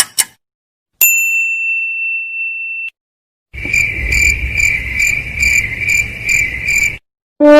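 A string of stock sound effects. First a single bright bell ding rings for about two seconds. After a short gap comes a cricket chirp that pulses steadily about three times a second over a low rumble and cuts off suddenly. Right at the end a low brass note starts, the opening of a descending horn effect.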